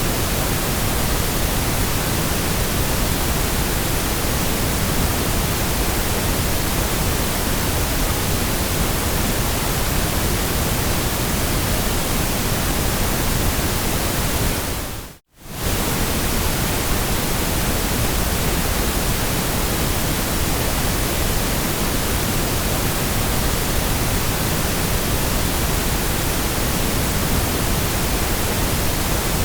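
Steady, even hiss of white noise. About halfway through it fades out to near silence and straight back in within about half a second.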